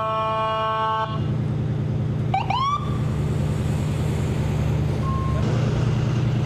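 An emergency vehicle's horn sounds for about a second, then its siren gives one short rising whoop about two and a half seconds in, over the steady rumble of an idling engine.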